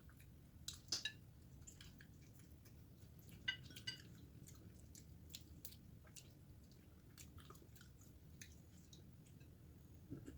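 Faint chewing of grilled chicken eaten by hand: scattered small wet clicks and smacks of the mouth, a little louder about a second in and again around three and a half seconds in.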